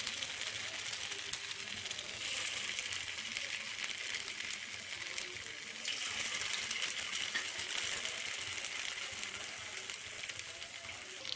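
Paneer noodle spring rolls shallow-frying in hot oil in a pan over a low flame: a steady sizzle with fine crackling throughout.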